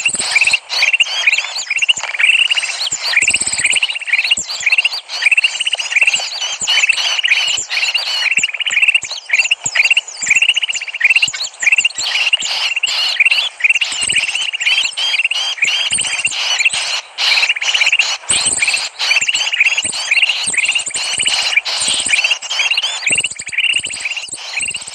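Dense, continuous chattering of many small birds, rapid overlapping chirps and twitters repeating several times a second: a bird-lure (pikat) call recording meant to draw in small birds.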